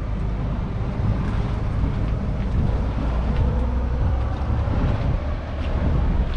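Case IH 844 XL Plus tractor's 4.4-litre four-cylinder diesel engine running steadily, a little louder after the first second.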